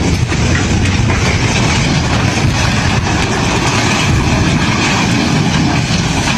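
Loud, steady rumble of heavy machinery or a large engine running, starting abruptly.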